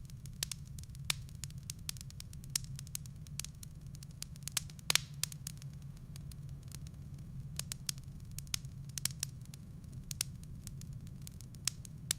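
Wood fire in a fireplace crackling, with irregular sharp pops from the burning logs, several a second and loudest about five seconds in, over a steady low rumble.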